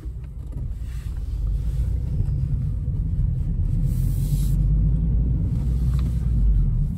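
Low rumble of a 2015 Honda Civic Si's 2.4-litre four-cylinder engine and its tyres, heard from inside the cabin as the car picks up speed slowly. It grows louder about a second in, then holds steady.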